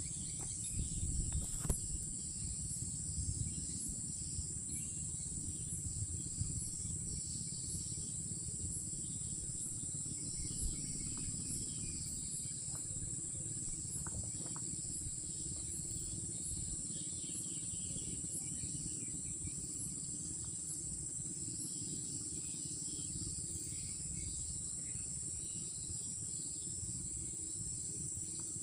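Night insect chorus of crickets: a steady, unbroken high-pitched trill, with a low rumbling noise underneath and a few faint clicks near the start.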